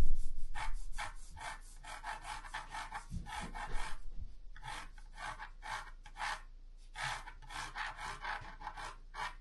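A drawing tool scratching on cardboard in quick repeated strokes, about three a second, with a couple of short pauses, as lines are sketched onto the sheet.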